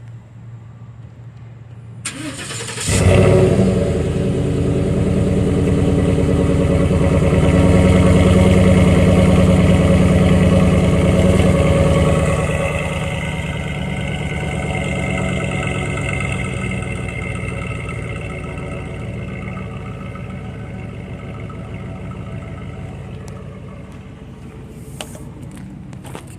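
2014 Ford F-150's 5.0 L V8 cranked over about two seconds in, catching and then idling through an exhaust with the resonator deleted and the muffler's packing picked out. The start-up idle runs fast and loud, then settles lower and quieter about halfway through.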